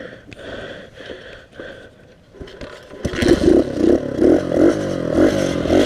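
Small pit bike engine being started: faint clatter, then the engine catches about three seconds in and runs unevenly, pulsing with throttle blips. It is struggling to stay running after repeated stalling.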